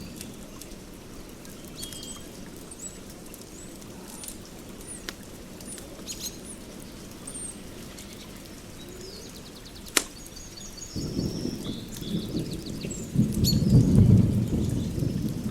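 Birds chirping over a steady hiss of rain, with one sharp crack about ten seconds in. A low rumble of thunder builds near the end and becomes the loudest sound.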